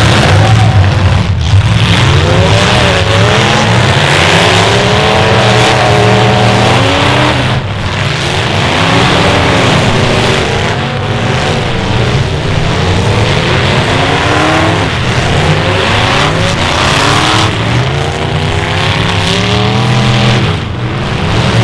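Several demolition derby cars' engines revving hard at the same time, their pitch rising and falling over and over as the cars push and ram one another in the mud.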